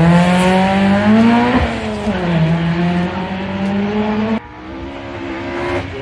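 Rally car engine accelerating hard, its pitch climbing, dropping at a gear change about a second and a half in, then climbing again. The sound drops off sharply about four and a half seconds in, leaving a quieter engine.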